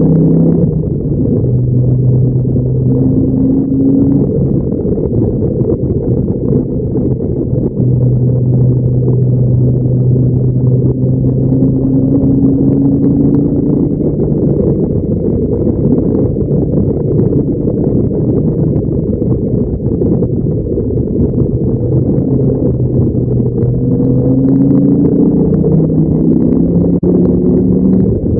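Dodge Viper SRT10's V10 engine running hard on track at high speed, a steady drone that slowly rises in pitch in places.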